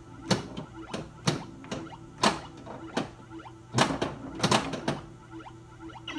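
Bally pinball machine in play: irregular sharp knocks of the ball, flippers and solenoids, over the steady low drone of the game's background sound from the Squawk & Talk sound board.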